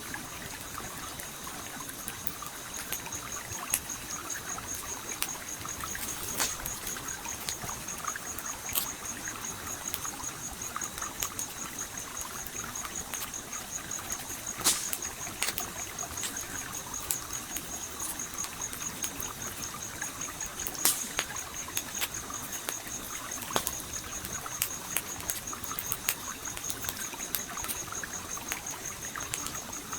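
Campfire crackling, with irregular sharp pops and snaps, a few of them louder, over the steady flow of a stream. A high, steady pulsing tone runs underneath.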